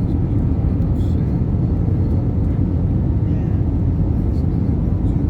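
Airbus A320 cabin noise: a steady low rumble of the engines and airflow heard from inside the cabin, with a few faint clicks.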